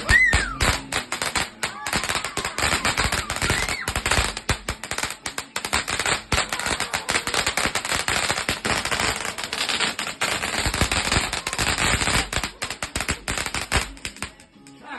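Firework barrage going off in a rapid, continuous run of sharp cracks and bangs, many a second. It cuts off suddenly about fourteen seconds in.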